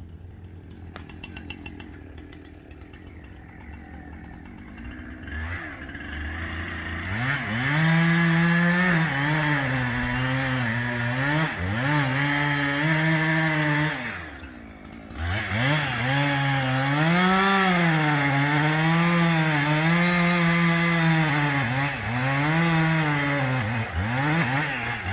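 Two-stroke chainsaw cutting into a large maple trunk. It is quieter for the first several seconds, then runs at full throttle from about seven seconds in, its pitch dipping and recovering again and again as the chain bogs down in the wood. The throttle lets off briefly about halfway through before the cut resumes.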